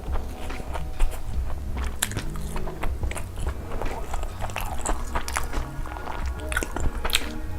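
Close-miked crunchy biting and chewing of food, many short crackling crunches in irregular succession, over background music with a steady bass.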